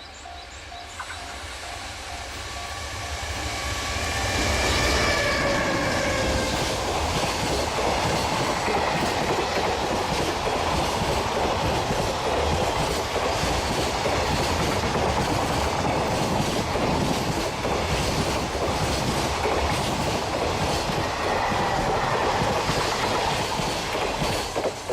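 Freight train, most likely hauled by an EH500 electric locomotive, approaching and passing close by. The locomotive's falling whine comes first, about four seconds in, then a long, steady, loud clatter of wagon wheels over the rail joints that cuts off right at the end.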